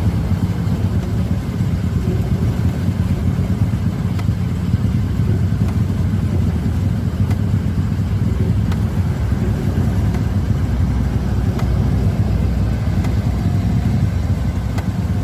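CC201 diesel-electric locomotive running steadily: an even, low engine sound with no rise or fall, and a few faint sharp ticks over it.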